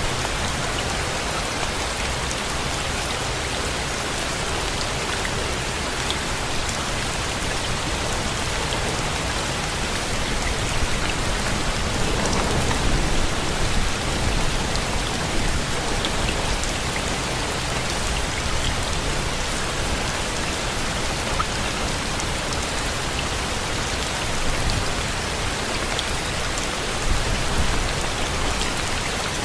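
Steady rain falling, an even hiss with scattered drop ticks, swelling slightly louder for a few seconds near the middle.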